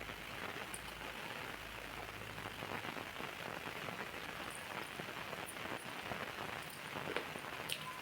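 Steady rain falling, a dense even hiss of countless small drop hits, with a few sharper clicks near the end.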